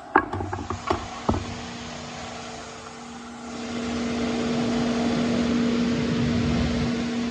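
A few sharp knocks, then a steady mechanical hum with a rushing noise that swells about halfway through and holds.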